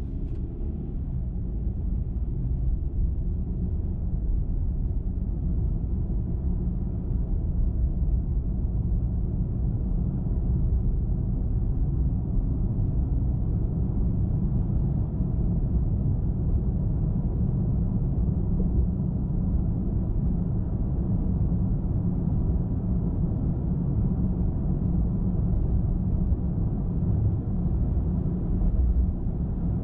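Steady low rumble of a car driving at highway speed: tyre and road noise with engine drone, unchanging throughout.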